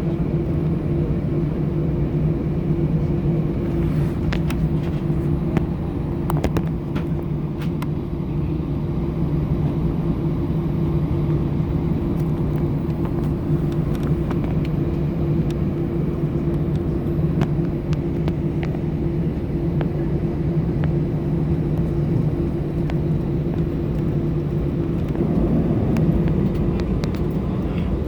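Airbus A320 jet engines running at taxi power, heard inside the passenger cabin: a steady rumble with a low, even hum. A few light clicks sound at scattered moments.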